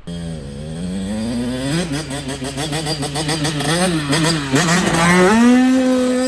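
Dirt bike engine running, with the throttle blipped several times. About five seconds in it revs up and is held high, then drops off near the end.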